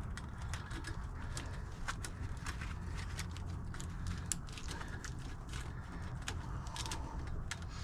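Scattered small clicks and metallic ticks, irregular and with no steady rhythm, from a steel winch cable and its wire-rope clamps being handled and threaded. A steady low rumble runs underneath.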